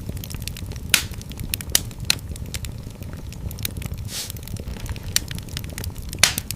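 Fireplace fire crackling: a continual scatter of sharp pops and snaps over a steady low rumble of burning, with louder pops about a second in, twice around two seconds, and near the end.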